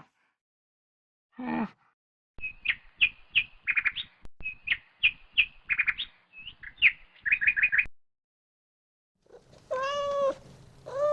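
Animal calls: a short low call, then a long run of quick, high chirping notes, then two long pitched calls near the end.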